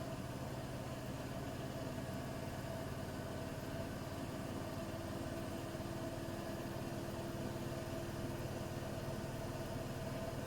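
Bosch WAT286V0 front-loading washing machine with its EcoSilence Drive brushless motor running, a steady hum made of several constant tones. A fainter extra tone comes in about halfway through and fades out near the end.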